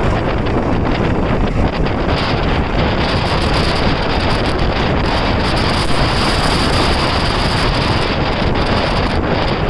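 A tractor engine running steadily, largely covered by wind buffeting the microphone.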